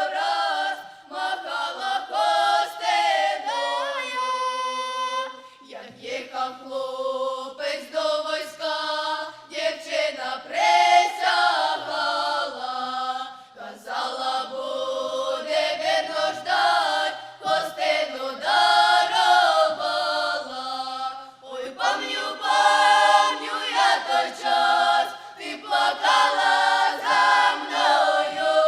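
Children's folk ensemble singing a Ukrainian folk song together in several voices, unaccompanied, in phrases separated by short breaths.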